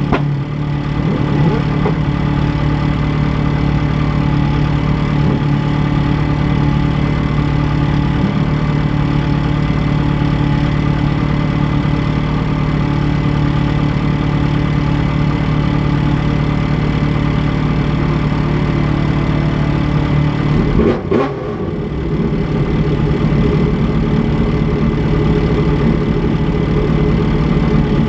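Race car engine idling steadily, heard from inside the stripped cabin, with one short rev about three-quarters of the way through.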